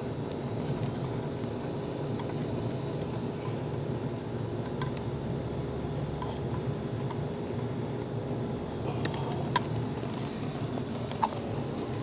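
Steady low mechanical hum from running equipment, with a few light sharp clicks of hand tools on screws and fittings in the last few seconds.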